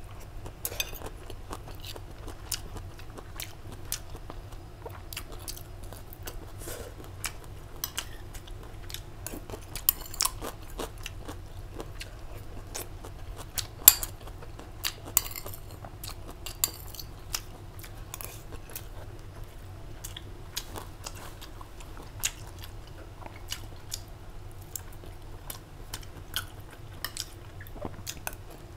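A person chewing and crunching mouthfuls of rice and pickled vegetables close to a clip-on microphone, with sharp clicks scattered throughout; the loudest click comes about 14 seconds in.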